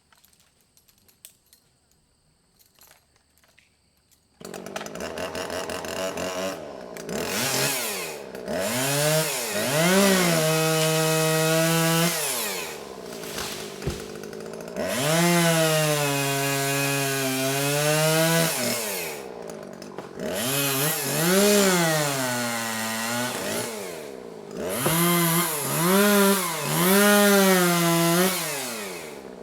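Near silence with a few faint clicks, then about four seconds in a two-stroke chainsaw comes in suddenly and is run in repeated long bursts at high revs, its pitch rising to a steady high whine and falling back between bursts, as in cutting down small trees.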